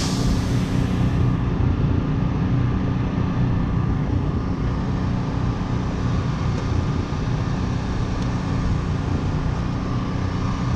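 Drag car's engine running steadily at low revs, a continuous low rumble. A brief hiss fades out in the first second or so.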